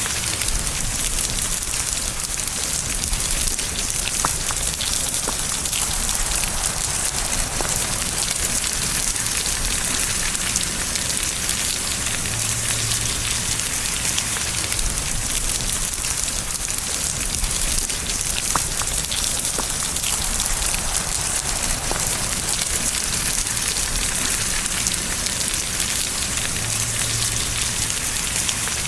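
Steady rain falling on a surface, a dense even patter with a few louder single drops standing out.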